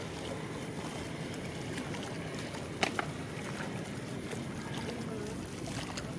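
Steady outdoor background noise with two sharp clicks close together about halfway through.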